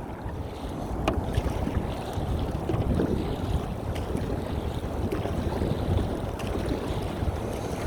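Wind gusting across the microphone, a steady rumbling noise that rises and falls, with a faint click about a second in.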